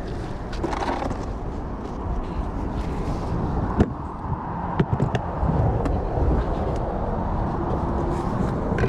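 Steady low rumble of passing road traffic, with a few sharp clicks and knocks about four to five seconds in.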